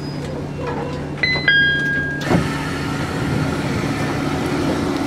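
Electric commuter train standing at a platform with a steady hum. About a second in, a two-note falling chime sounds and ends in a thud as the doors shut. A rush of noise and a new steady hum follow as the train readies to pull away.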